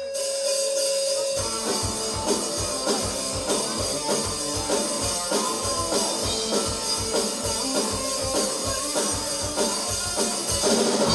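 Live band playing the instrumental intro of an original rock song: drum kit with cymbals and guitar. A held note opens it, then a steady kick-drum beat comes in about a second and a half in, and the band swells louder near the end as the vocals are about to start.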